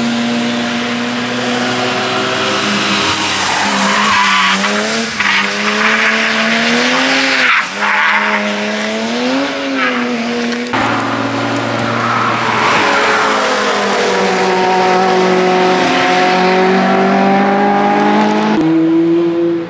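Sports car engines running hard through a corner, the revs rising and falling repeatedly as the throttle is worked. The engine sound changes abruptly to another car about halfway through and again near the end.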